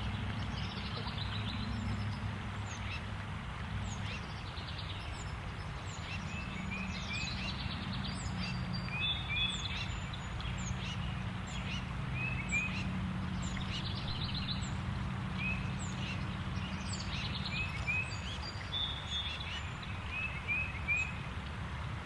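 Wild birds calling and singing: short high chirps in little groups of two or three every few seconds, with a few brief trills. Under them runs a steady low hum.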